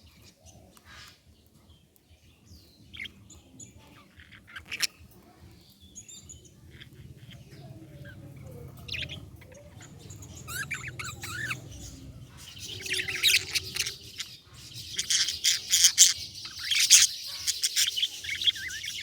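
Budgerigar chirping: scattered short, high chirps at first, then from about two-thirds of the way in a dense, louder run of rapid chirps and chatter.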